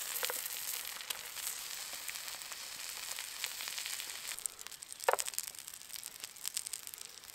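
Breakfast fry-up of sausages, black pudding, mushrooms and bread sizzling and crackling in a steel pan over a campfire, growing quieter toward the end. There is a short squeak about five seconds in.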